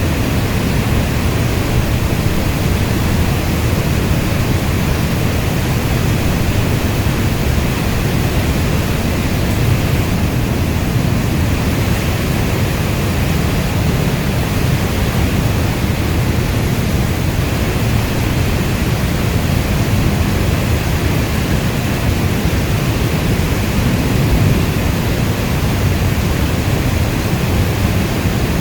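Steady heavy rain, a continuous even rush with most of its weight in the low end.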